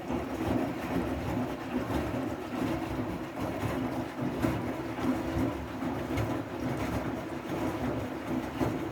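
Siemens i-Dos front-loading washing machine on its wool/delicate programme, its drum turning with a steady rumble and the wash load and water moving inside.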